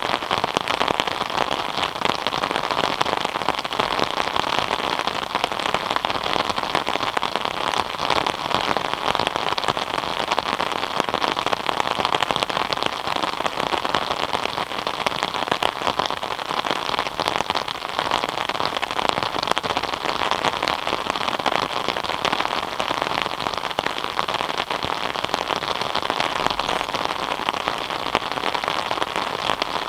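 Steady rain falling, with dense patter of drops striking a surface.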